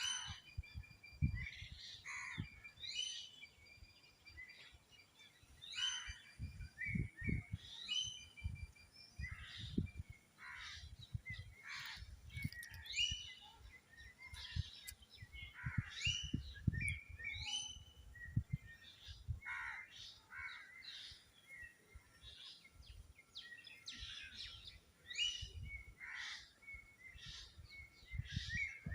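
Birds chirping: many short, high calls repeating throughout, over irregular low thumps.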